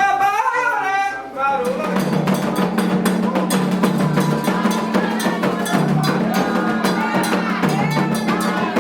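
A voice singing a sacred song, then about two seconds in a fast Candomblé drumming rhythm on atabaque hand drums starts up and continues, with voices over it.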